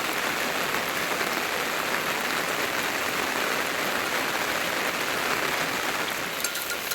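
Steady rain falling, a dense even hiss of drops hitting the ground and surfaces.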